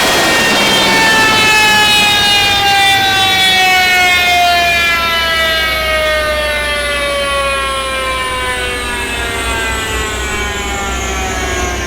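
Supercharged Corvette V8 winding down after a full-throttle pull. The supercharger's whine falls slowly and steadily in pitch as the revs drop, over a low rumble.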